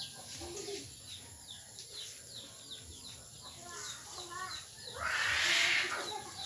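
Small birds chirping, short high notes repeating about three or four times a second. About five seconds in, a loud rushing noise lasts about a second.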